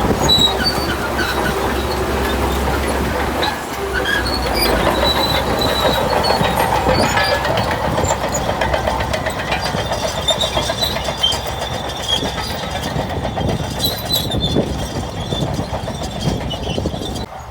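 Shantui bulldozer working, its diesel engine running while the steel tracks clank and squeal.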